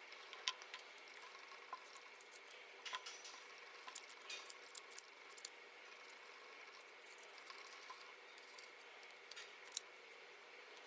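Faint, scattered small clicks and taps of tools and small parts being handled while a Canon PowerShot S110 compact camera is taken apart for repair.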